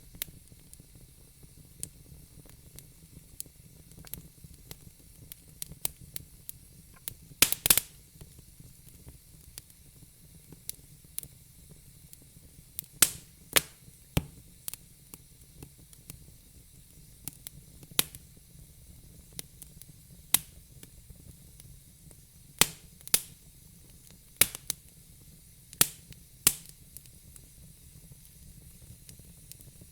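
Wood fire in a fire pit crackling: irregular sharp pops, with a close cluster of the loudest ones about seven and a half seconds in, over a faint steady hiss.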